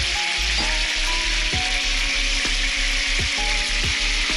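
Chicken pieces sizzling steadily in hot oil in a frying pan.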